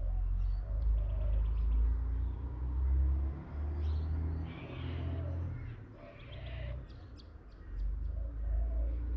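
Birds calling: short high chirps and repeated lower notes, over a steady low rumble that is louder than the birds.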